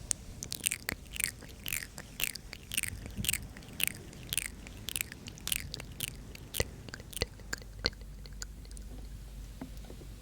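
ASMR mouth sounds: a run of wet mouth clicks and smacks about twice a second, thinning to scattered faint clicks for the last few seconds.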